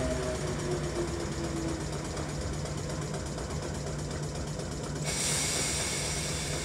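South Western Railway suburban electric multiple unit drawing to a stand at the platform, with a steady low hum from the train and a short whine in the first two seconds. A steady hiss starts about five seconds in as the train stands.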